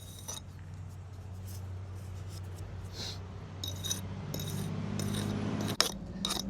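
Light metallic clinks and scraping from metal masonry hand tools, over a steady low hum that grows louder and cuts off suddenly near the end.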